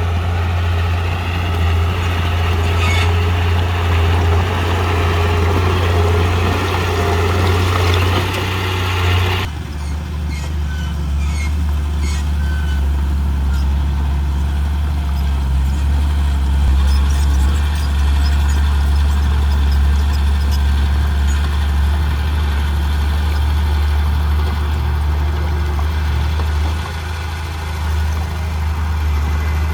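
Heavy diesel engine of earthmoving machinery running steadily with a deep hum; the sound changes abruptly about nine and a half seconds in, after which faint clicks come and go over the engine.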